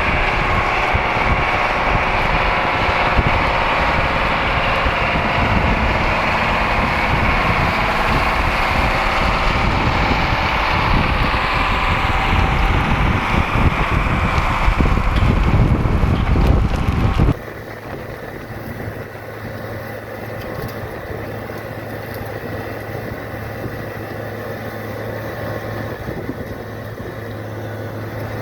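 AGCO tractor diesel engine running loud and steady. About two-thirds of the way through it drops abruptly to a quieter, steady engine note.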